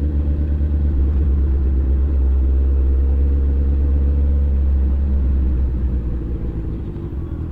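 Motorcycle engine running steadily under way, over a heavy low rumble; it eases off a little near the end.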